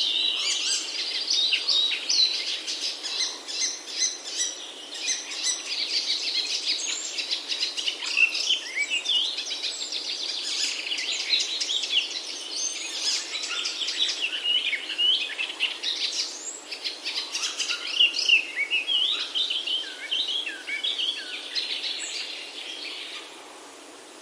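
A dense chorus of many songbirds chirping and singing over one another, with quick overlapping notes and short pitch glides. The chorus thins out and stops about a second before the end, leaving a faint steady hiss.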